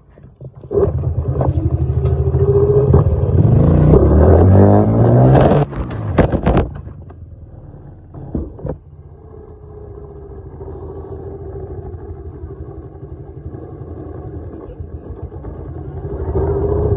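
Dirt bike engine revving hard, its pitch climbing to a loud peak about five seconds in, then backing off and running steadily quieter before growing louder again near the end as the bike accelerates and rides.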